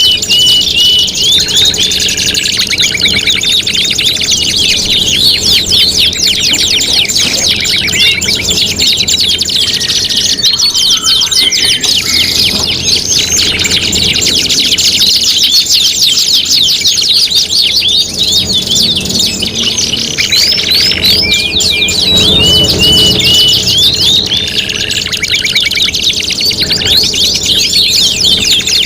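Domestic canaries singing continuously, several songs overlapping: long fast rolling trills with short held whistled notes in between.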